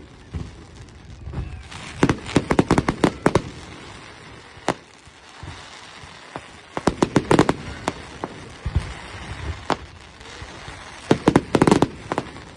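Fireworks going off: rapid clusters of sharp bangs and cracks, with a single bang between the first two clusters.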